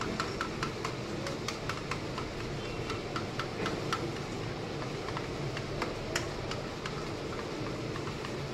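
Chicken frying in hot oil in a karahi: a steady sizzle with irregular crackling pops.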